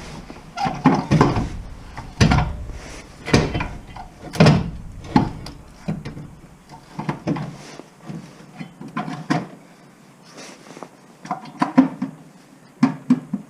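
A dozen or more irregular knocks and clunks, like tools and parts being handled and set down during work on the van's clutch and gearbox.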